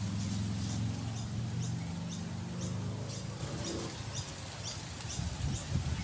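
A small bird chirping in short high notes, about two a second, over a louder low steady hum that fades out about four seconds in.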